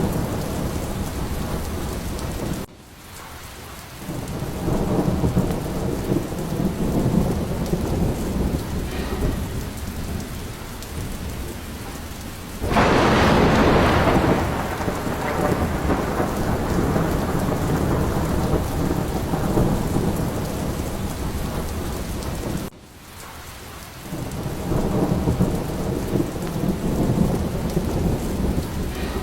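Steady heavy rain with rumbling thunder, and a loud thunderclap about halfway through that fades into rumble. Twice, near the start and near the end, the sound drops abruptly and swells back after a couple of seconds.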